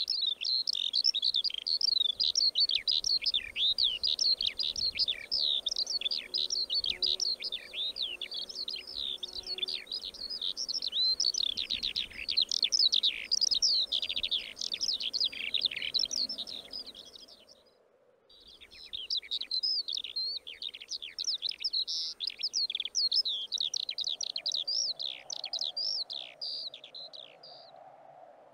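Skylark singing its long, unbroken song of rapid, high warbling trills, with a brief break about two-thirds through. A faint steady hum from the overhead power lines comes in near the end.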